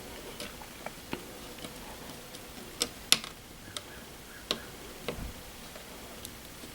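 Irregular small clicks and taps of hands working stiff thermostat wires into the terminals of a Nest thermostat base, the sharpest click a little after three seconds in.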